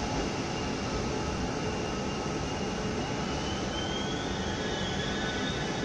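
Push-pull Tze-Chiang express train pulling away and gathering speed, a steady rumble with a thin high whine that steps up in pitch about three and a half seconds in.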